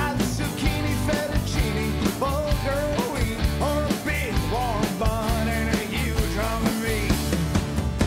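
A band playing upbeat rock music, with a steady drum beat under guitar and a bending melodic lead line.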